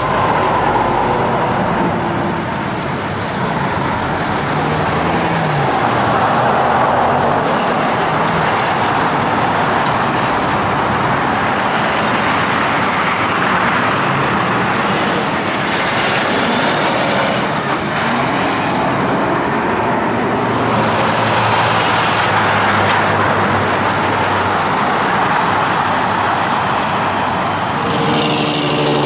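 Highway traffic with big-rig tractor-trailers passing one after another: tyre and engine noise swelling and fading several times over a low engine drone.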